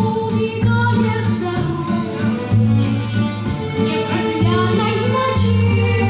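A song: a female voice singing over instrumental backing with a steady, repeating bass line.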